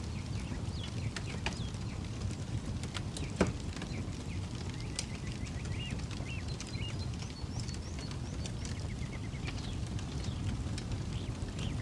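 Campfire crackling, with scattered sharp pops and one louder pop about three and a half seconds in, over a low steady rumble. Birds chirp repeatedly in the background.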